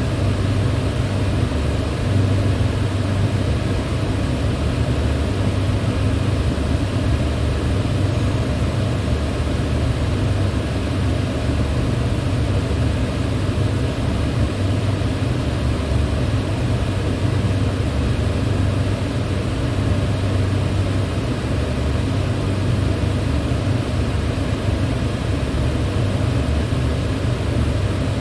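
Electric fan running steadily: an even whoosh of moving air over a deep, constant motor hum, with no change in speed.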